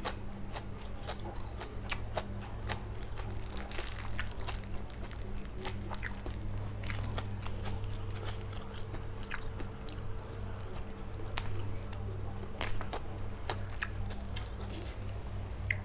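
A person chewing and biting into a spicy blanched-shrimp salad, with irregular small crunches and mouth clicks, over a steady low hum.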